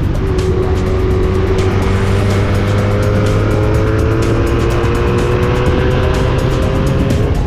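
1984 Honda Magna V65's V4 engine through a Kerker 4-into-1 exhaust, running hard at road speed with its pitch slowly rising as the bike accelerates. Steady wind rushes over the microphone.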